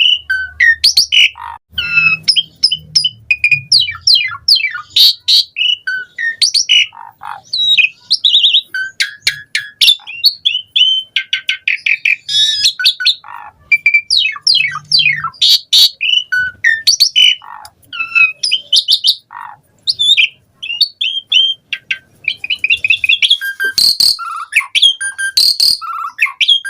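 Asian pied starling (jalak suren) in full song: a fast, unbroken run of varied whistles, rising and falling sweeps, trills and harsh chatters, packed with mimicked phrases of other birds.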